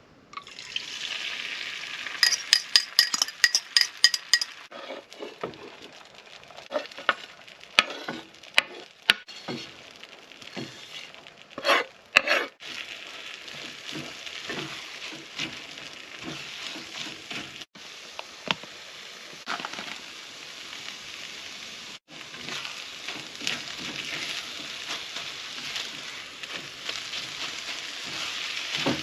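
Bacon and eggs sizzling in a frying pan, a steady high hiss, with repeated clicks, clinks and knocks of a utensil against the pan and dishes, busiest in the first half.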